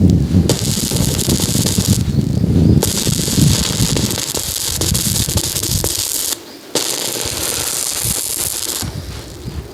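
Electric arc welding on steel, a steady crackling hiss that breaks off and restarts a few times as the arc stops and is struck again.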